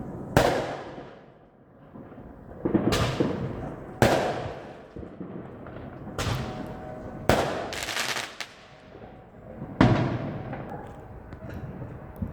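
Fireworks going off: about six sharp bangs a second or more apart, each fading out slowly, with a short spell of crackling just after one of the bangs past the middle.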